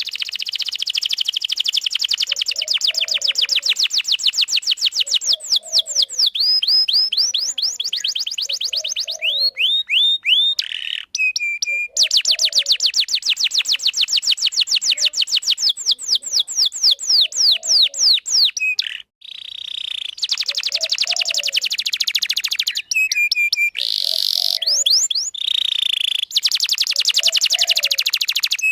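Domestic canary singing a long, continuous song of fast trills and rolls, with short clear whistled notes between phrases. It breaks off briefly twice before carrying on.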